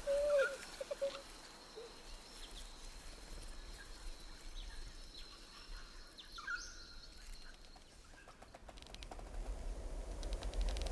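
A few short bird chirps and calls in the first couple of seconds, then sparse faint chirps over quiet ambience, with a low rumble building near the end.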